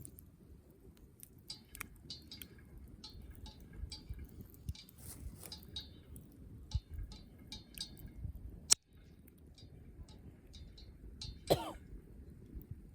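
Wood campfire crackling, with scattered small pops and one sharp, loud pop about nine seconds in. Near the end there is a brief vocal sound that falls in pitch.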